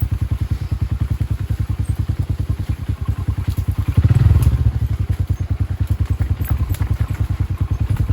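Motorcycle engine running at low revs with a steady low pulse of about ten beats a second. It briefly gets louder about four seconds in, then settles back.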